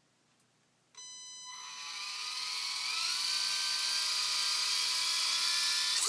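Electric motor and propeller of a remote-control paraglider throttled up for a take-off attempt: a whine starts suddenly about a second in, and a rushing propeller noise then grows steadily louder.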